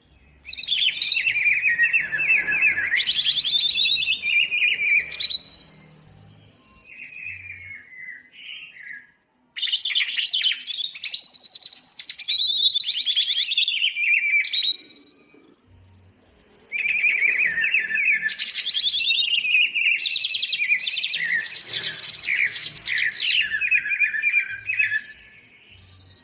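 Cucak ijo (green leafbird) singing a fast, warbling song packed with mimicked phrases, in three long bursts with short pauses and a quieter phrase after the first.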